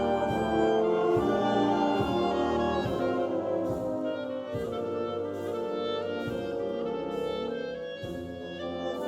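Concert band playing slow, held chords with the brass prominent.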